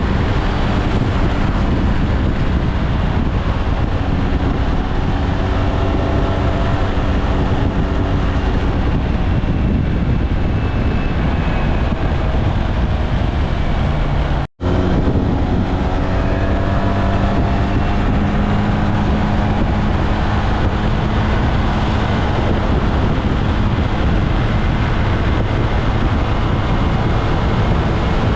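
SYM Maxsym TL 508 maxi-scooter under way, its 508 cc parallel-twin engine running under loud wind rush on the microphone, the engine note slowly rising and falling with speed. The audio drops out for a split second about halfway through.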